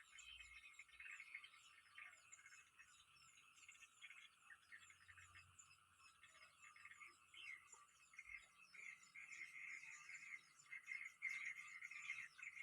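Faint, continuous animal chorus: a dense, pulsing trill at a middle-high pitch with fine high ticking over it, swelling a little near the end.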